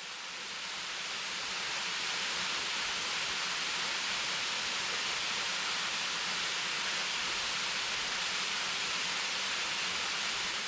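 Waterfall's rushing water, a steady hiss that fades in over the first couple of seconds.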